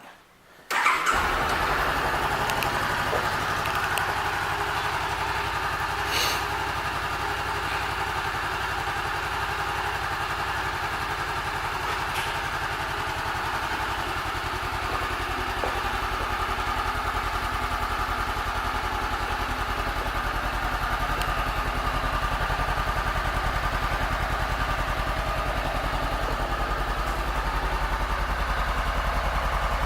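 2015 Honda CBR500R's parallel-twin engine starting up about a second in, then idling steadily.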